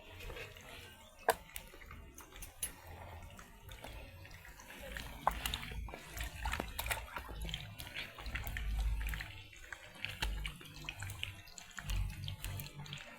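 Water splashing and running, as in washing by hand, with many scattered sharp clicks and knocks.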